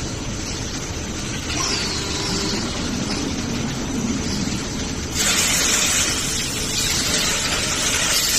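Fibre cement board production line machinery running with a steady mechanical rumble and hiss; about five seconds in, a louder, brighter hiss sets in and holds.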